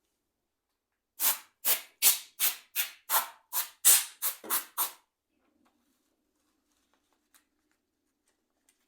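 About ten quick swishing rubbing strokes in a row, two or three a second, stopping after about four seconds.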